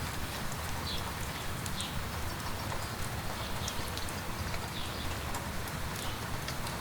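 Light rain falling steadily, with many scattered sharp drips, over a low steady rumble, and footsteps on a wet path at an uneven pace.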